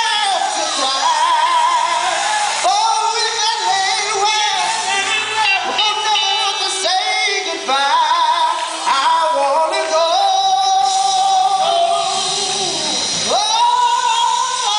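Live gospel music: a lead voice singing long, bending melismatic runs over a band, with no clear words.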